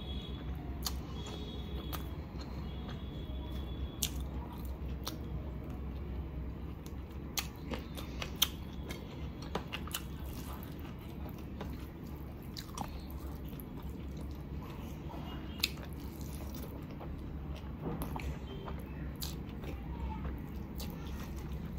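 Close-miked chewing and wet lip-smacking of a person eating chicken and biryani rice by hand, with sharp mouth clicks every second or so. A steady low hum runs underneath.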